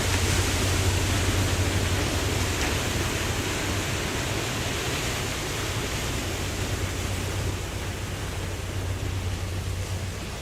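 Ocean surf: a wave washes in with a rush of water near the start, then the wash slowly fades to a steady hiss.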